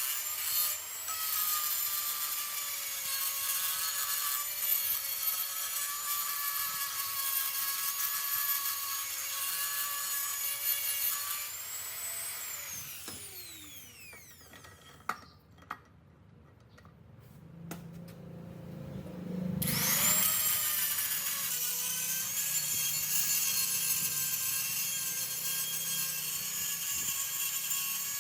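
A high-speed electric power tool running steadily, spinning down and stopping about twelve seconds in. After a quiet pause with a couple of clicks, it starts again and spins back up about twenty seconds in.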